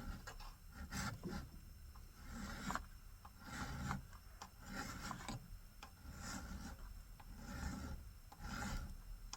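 Rasping strokes of a hand file or abrasive rubbing on a metal workpiece, repeated at about one stroke a second.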